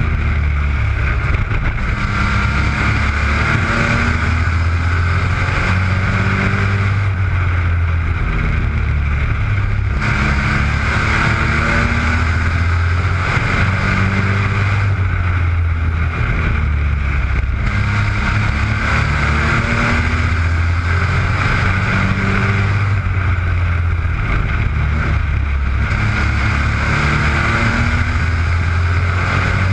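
Mini trucks racing on a speedway oval: engines running hard, their pitch rising and falling as they accelerate and lift, swelling and fading every several seconds as the pack comes round.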